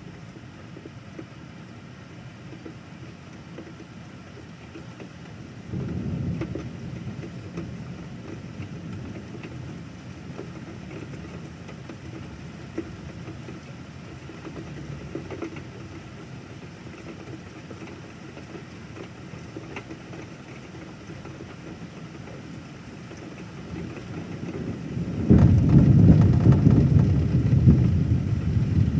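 Steady rain with thunder: a short low rumble about six seconds in, then a louder, longer peal of thunder rolling in near the end.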